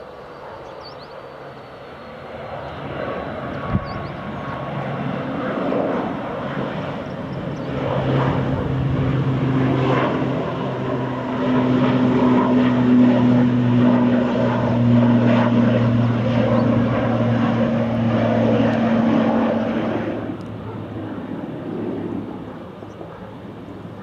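Turboprop airliner's engines and propellers passing close, with a steady low propeller drone. The sound builds over several seconds, holds loud for about ten seconds, then drops sharply about twenty seconds in.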